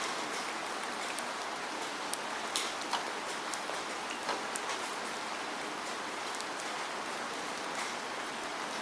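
Steady rain falling, an even hiss with scattered sharp drops striking a surface close by.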